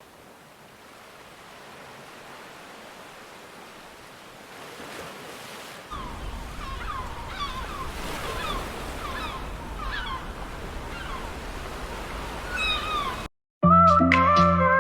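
Waves and surf washing, growing louder and deeper about six seconds in, with gulls calling repeatedly over it. Near the end the sound cuts out briefly and music starts.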